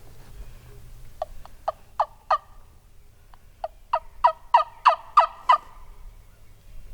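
Turkey yelping: a run of five sharp yelps, a pause of about a second, then a run of eight louder yelps.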